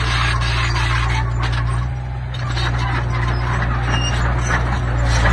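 Diesel engine of heavy earthmoving machinery running steadily, with stone grinding, scraping and rattling over it, louder near the end.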